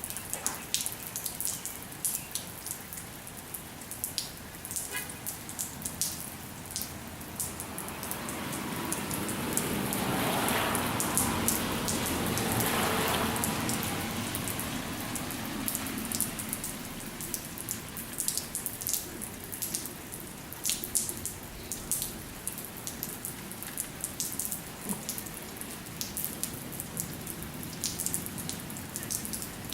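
Light rain falling, with many individual drops ticking sharply close by. About a third of the way in, a louder rushing noise builds for several seconds and then fades back to the rain.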